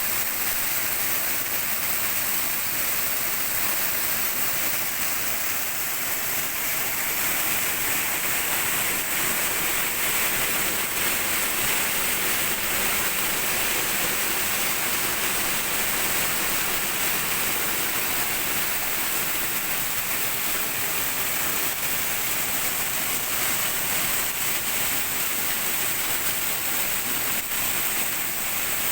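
Waterfall pouring down close by, a loud, steady, unbroken rush of falling water, heard from the path behind the falling curtain of water.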